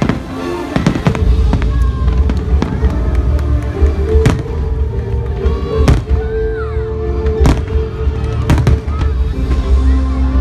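Fireworks display: aerial shells going off in sharp, separate bangs about every one to two seconds, over loud music with a heavy bass.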